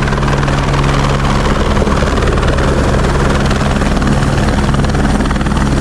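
Loud, steady engine noise with an even low hum and a fast, regular pulse, held at constant revs.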